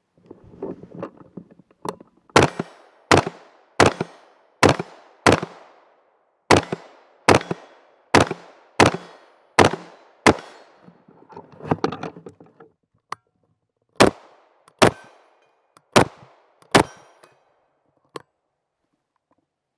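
A 14.5-inch mid-length BCM AR-15 rifle in .223/5.56 fires about fifteen semi-automatic shots in three strings of five, six and four. The shots come roughly three-quarters of a second apart, and each has a short echoing tail.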